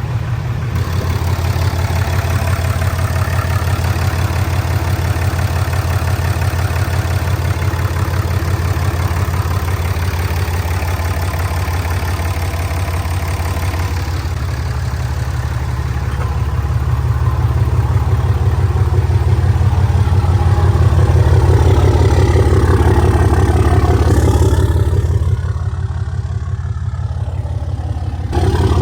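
Cummins 6.7-litre inline-six turbodiesel in a 2016 RAM heavy-duty pickup idling steadily, run for a few minutes just after an oil and filter change to circulate the fresh oil. It gets somewhat louder past the middle and briefly duller near the end.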